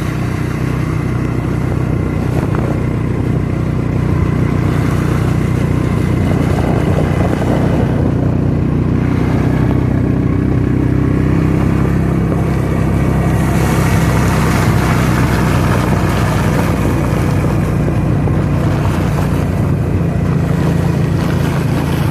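Suzuki King Quad ATV engine running steadily under way, with a rush of wind noise rising for a few seconds about two-thirds of the way through.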